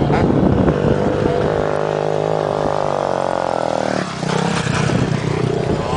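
Motocross dirt bike engine held at steady high revs, easing off and dropping away about four seconds in, with other bikes revving on the track around it.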